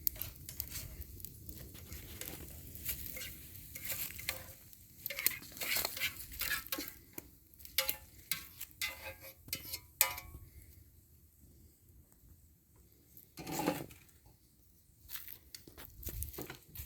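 A metal utensil clinking and scraping in a cooking pan: many short knocks for about ten seconds, then a quieter spell, one louder knock and a few more clinks near the end.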